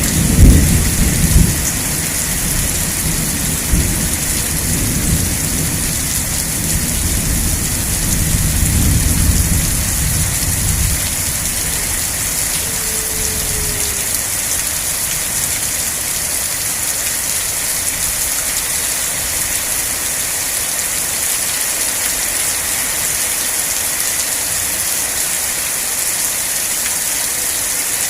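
Steady heavy rain, a continuous hiss, with a low rumble of thunder at the start that dies away about ten seconds in.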